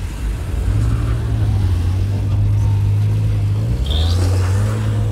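Car engine running with a steady low drone that sets in about a second in, dips briefly past the middle and picks up again.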